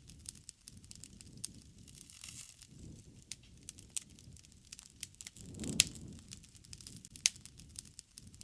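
Wood fire crackling: irregular sharp pops over a low rushing of flames. The flames swell and the loudest pop comes a little before six seconds in, with another loud pop about seven seconds in.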